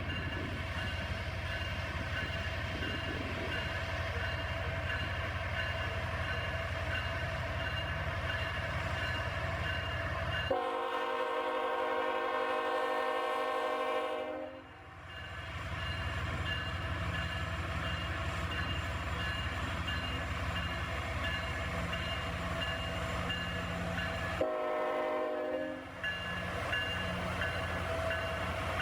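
Canadian National freight train running past with a steady low diesel rumble, while a grade-crossing bell rings. The locomotive horn blows a long blast of about four seconds near the middle, and a shorter blast of about a second and a half near the end.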